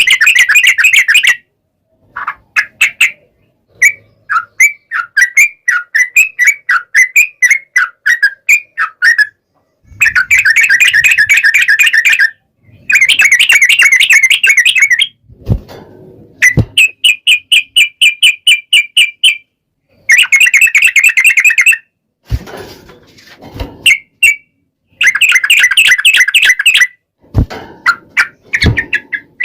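Yellow-vented bulbul (trucukan) song: repeated bouts of long, rapid chattering phrases, each lasting one to three seconds and separated by short silences. A few brief soft knocks sound in the second half.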